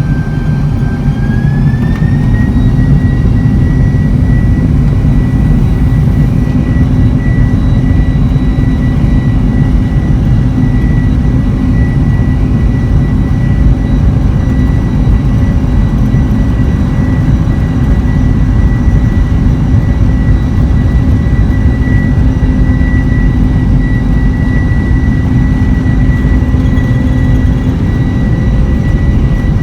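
Boeing 747-400's jet engines at high thrust, heard from inside the cabin: a loud, heavy rumble with a high engine whine that rises about a second in, then holds steady.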